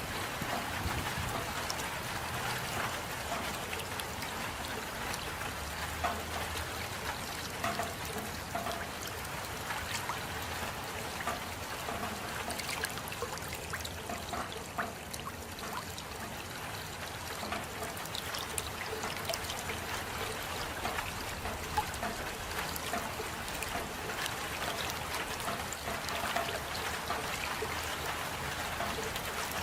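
Steady rain falling: an even hiss with many separate drops ticking through it.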